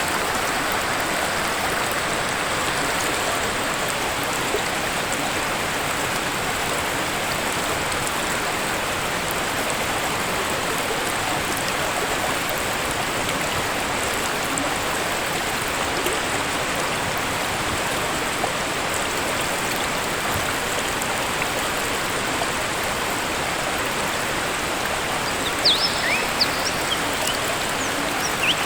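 Waterfall water rushing in a steady, dense roar. Near the end, a few short high bird chirps sound over it.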